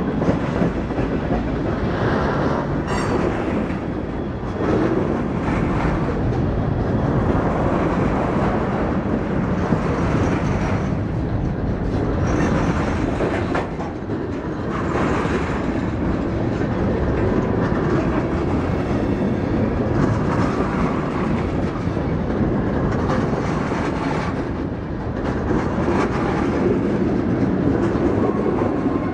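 Freight train rolling past, its car wheels clacking steadily over the rail joints.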